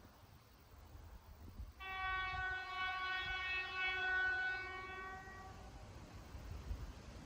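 Train horn sounding one long steady blast that starts about two seconds in and fades after about three and a half seconds, over a faint low rumble.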